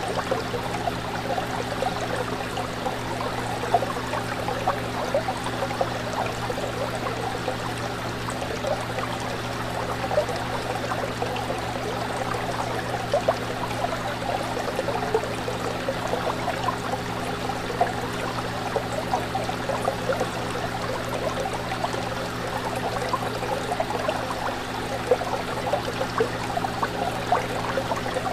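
Fish tank water bubbling and trickling continuously, with a steady low hum underneath from the tank's pump.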